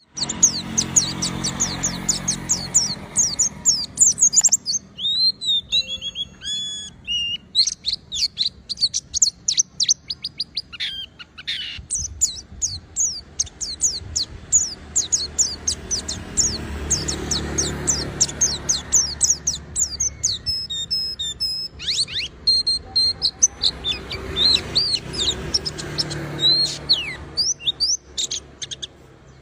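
White-eye (pleci) singing without pause: a fast, continuous run of high, thin chirps and trills, broken by a few short steady whistled notes.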